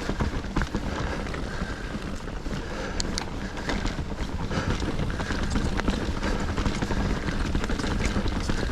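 Mountain bike being ridden over rough, rocky dirt trail: a steady rumble of tyres and wind on the camera microphone, with many small clicks and rattles from the chain and bike.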